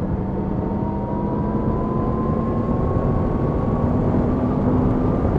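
Yamaha MT-10 SP's 998 cc crossplane inline-four engine running under way, with road and wind noise; its note rises slowly as the bike gathers speed.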